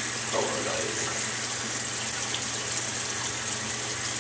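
Tap water running steadily into a sink, with a low steady hum underneath.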